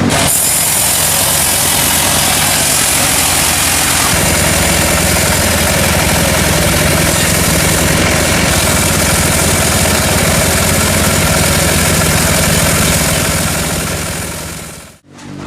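Sawmill machinery running: a steady engine drone under a dense hiss, shifting in tone about four seconds in and fading out near the end.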